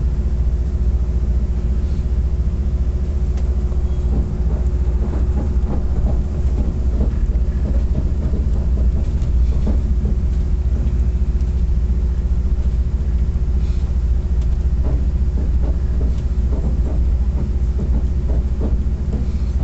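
Copper Canyon passenger train running, heard from inside the carriage: a steady low rumble with a faint constant hum and scattered light clicks and knocks.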